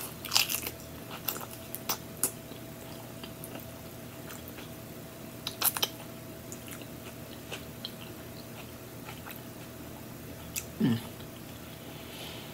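Crisp crunching bites into a raw romaine lettuce leaf wrapped around chicken salad, then chewing, with a cluster of sharp crunches near the start and another about halfway. Near the end comes a short low hum from the throat that drops in pitch.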